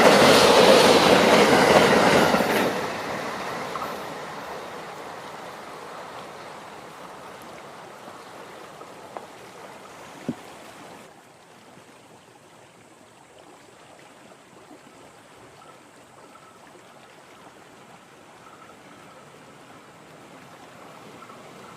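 A train passing with wheels clattering over rail joints. It drops off sharply about two and a half seconds in, then fades away over several seconds into a quiet background. A short click comes about ten seconds in.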